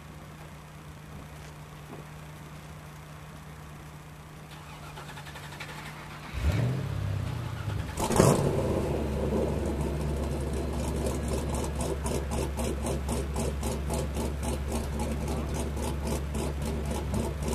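A drift car's engine starting about six seconds in, blipped loudly about two seconds later, then running at a loud, steady, pulsing idle.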